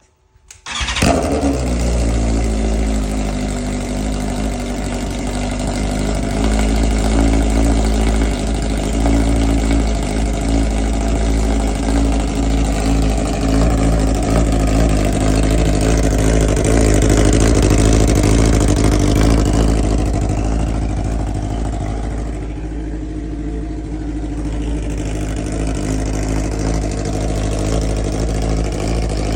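BMW S1000RR inline-four motorcycle engine with a straight-piped full titanium exhaust, cold-started: it fires and catches about a second in, then runs at a steady, loud idle. The idle eases a little past the middle and picks up again near the end.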